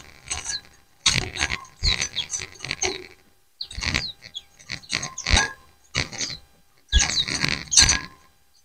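A flock of white-eyes (pleci) chirping and calling over one another in clusters of rapid chirps, with brief pauses about three seconds in and again about six and a half seconds in.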